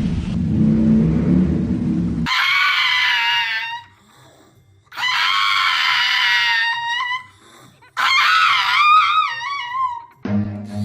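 Three long, high-pitched screams with short gaps between them, the last one wavering up and down, after a low rumbling noise that stops about two seconds in.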